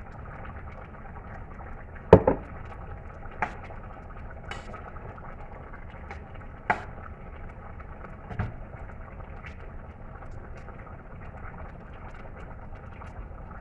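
A pot of stew chicken simmering on the stove with a steady hiss, broken by several sharp knocks of a utensil against the pot, the loudest about two seconds in.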